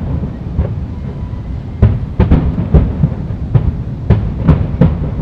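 Aerial fireworks shells bursting in an irregular series of booms over a continuous low rumble. The booms come closer together from about two seconds in.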